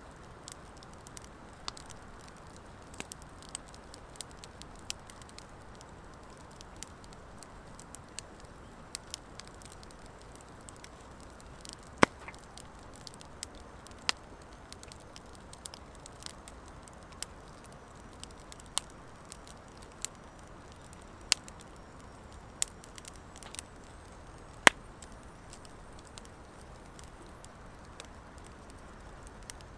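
Wood fire of driftwood and dry hardwood logs burning in a fire pit: a steady low hiss of flames with irregular crackling and scattered sharp pops, the loudest about 12, 14 and 25 seconds in.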